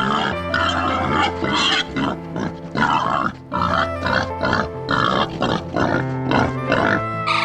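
Pig grunting repeatedly in short calls, over background music with sustained tones.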